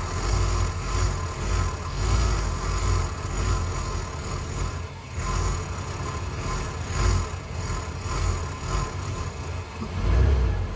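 1993 Ford E250's 5.8-litre V8 idling roughly, its rumble surging up and down, the sign of the hunting idle the engine develops once warm. Over it a high whistling hiss comes and goes in pulses and stops near the end, one of the intermittent noises the owner hears from the air intake.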